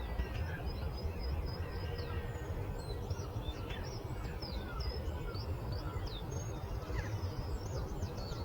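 Many small birds chirping and singing in quick, overlapping short calls, over a steady low rumbling background of outdoor ambience.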